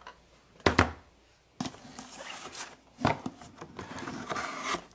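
Hands handling carded die-cast toy cars: a sharp knock about a second in, then the plastic-and-cardboard packaging rustling with irregular clicks and knocks.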